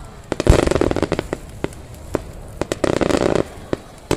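Fireworks bursting: a heavy boom about half a second in, then dense crackling from the bursting shells, which dies down and comes back in a second spell of rapid cracks past the middle.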